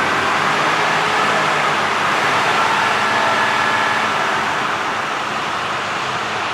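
Mercedes-Benz Actros 2545's heavy diesel engine idling steadily after its start.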